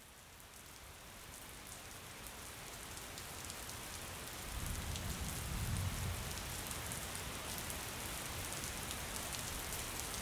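Steady rain falling, fading in over the first few seconds, with a low rumble about five seconds in.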